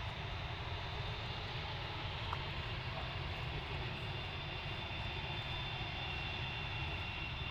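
Jet aircraft engines running steadily, a high whine over a continuous low rumble.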